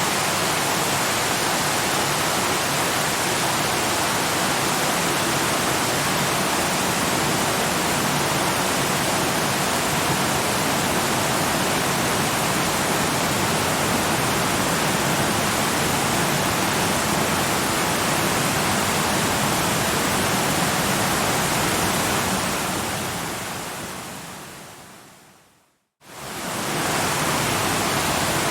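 Steady rushing of a waterfall. Near the end it fades away to a moment of silence and quickly swells back in, like the seam of a looped recording.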